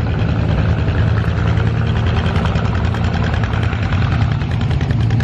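Tractor engine idling steadily, a low even hum with a fine regular ticking from its firing.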